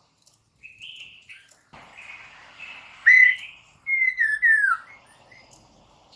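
Poksay mandarin, a laughingthrush, singing short clear whistled phrases. The loudest are a slurred whistle about three seconds in and a quick run of falling whistles just after.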